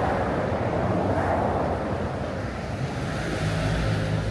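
Wind rushing over the microphone, with road traffic in the background; a low engine hum comes in about three and a half seconds in.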